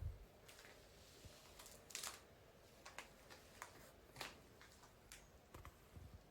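Near silence broken by a dozen or so faint, irregular clicks and rustles, the loudest at the very start and about two seconds in.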